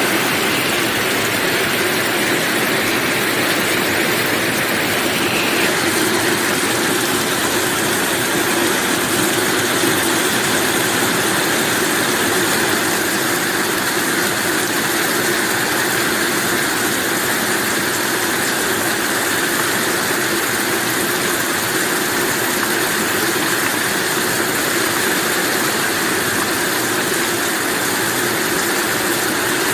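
Heavy rain falling steadily, a continuous even hiss with no breaks or thunderclaps.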